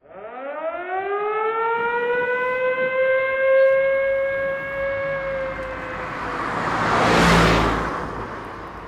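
A siren winding up in pitch over about three seconds and then holding a steady wail that slowly fades. Around seven seconds in, a broad rushing noise swells up and dies away under it.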